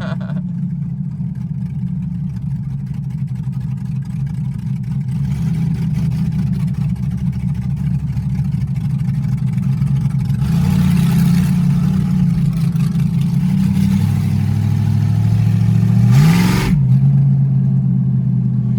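LS-swapped Ford Crown Victoria's V8 engine running under load on a test drive in second gear. It swells in level about ten seconds in, then climbs quickly near the end and drops off suddenly.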